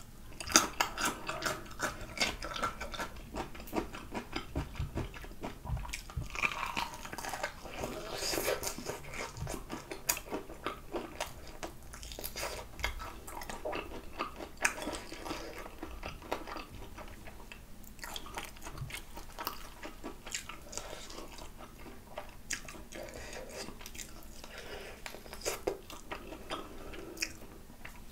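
A crispy fried chicken drumstick being bitten and chewed, with many small crackling crunches of the breading.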